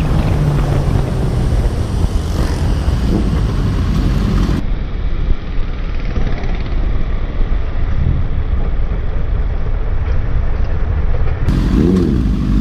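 Riding noise from a moving motorcycle: heavy wind rumble on the microphone with an engine running, its steady note sagging early on. The sound changes abruptly about a third of the way in and again near the end, where one clip cuts to another.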